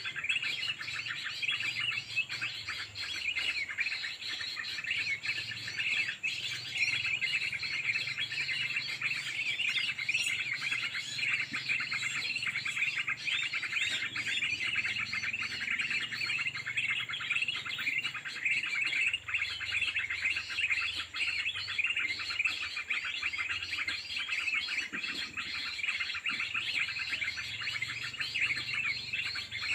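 Many small birds chirping at once: a dense, unbroken chatter of quick, high overlapping chirps.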